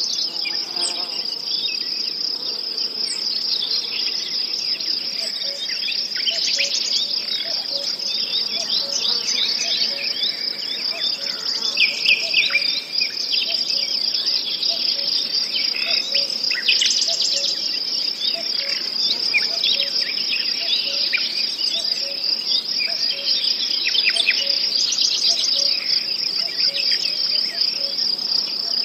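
Nature ambience of crickets chirping in a continuous, unbroken chorus, with many short bird chirps scattered over it.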